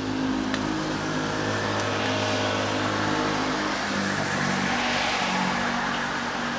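Steady rain with a car engine humming close by. The engine note shifts about two-thirds of the way in while a swell of tyre hiss on the wet road rises and peaks.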